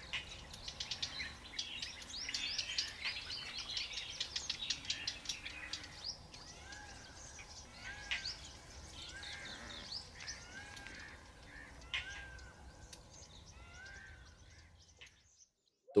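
Wild birds calling, with dense high chirping and twittering for the first six seconds, then a short arched call repeated about once a second. The calls fade out just before the end.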